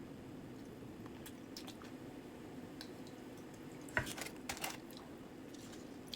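A person chewing and biting fried chicken close to the microphone, with scattered small clicks and a cluster of sharp crunches about four seconds in. A steady low hum runs underneath.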